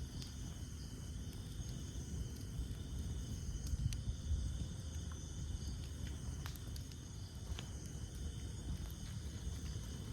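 Wood campfire burning, with a low steady rumble of flame and scattered sharp crackles and pops every second or so. A steady high chirring of night insects runs underneath.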